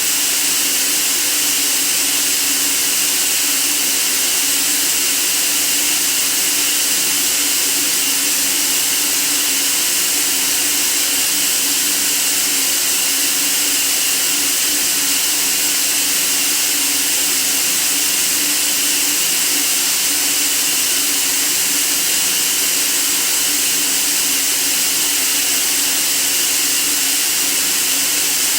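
Steady, unchanging white noise: an even hiss, brightest in the highs, with a faint low hum held underneath.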